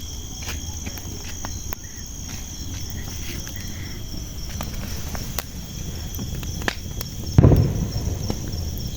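Crickets trilling steadily at night, with scattered sharp pops from a burning wood bonfire and one dull thump about seven and a half seconds in.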